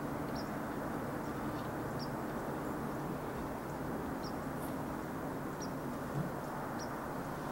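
Short high chirps repeating about once a second from a bird calling, over a steady low rush and hum of background noise.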